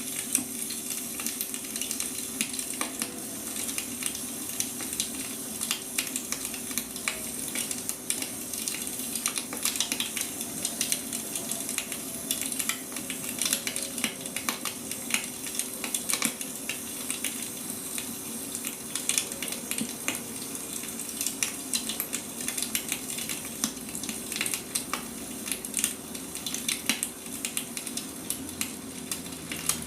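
Wood fire burning, crackling and popping irregularly over a steady hiss, with a faint steady hum underneath.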